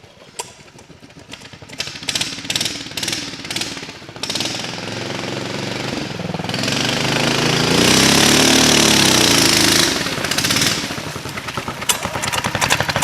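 The converted mini-bike trike's 420 cc single-cylinder engine running with a rapid firing beat. From about six seconds in it climbs in pitch and gets louder, is loudest around eight to ten seconds in, then drops back.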